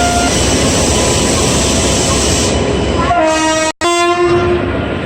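Loud steady rumble of a train moving past, with an electric or diesel locomotive horn sounding about three seconds in for roughly a second and a half, cut by a split-second dropout.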